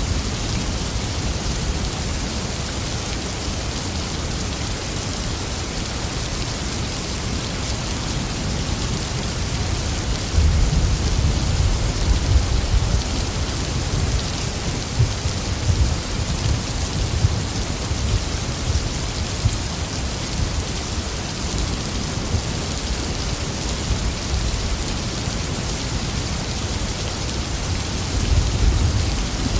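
Steady rain falling with thunder: a low rumble of thunder comes in about ten seconds in and fades over several seconds, and another begins near the end.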